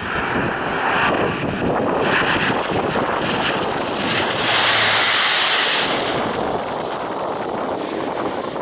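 Jet airliner's engines passing close by: a steady noise with a thin high whine, swelling to its loudest about five seconds in, with wind buffeting the microphone.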